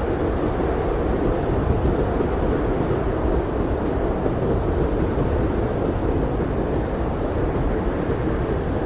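Blizzard wind blowing steadily: a deep, even rush with little hiss and no gusts or breaks.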